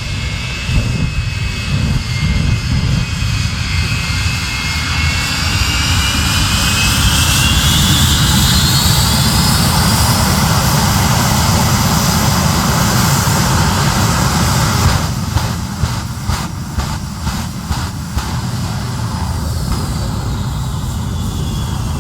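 Jet-powered fire truck's jet engines running with a heavy rumble, their high whine rising steadily as they spool up. About two-thirds of the way through comes a quick run of sharp cracks.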